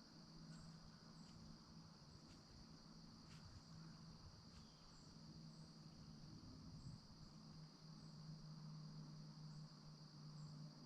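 Faint steady drone of an insect chorus in the woods, one unbroken high-pitched band, with a few short high chirps scattered through it and a low steady hum underneath.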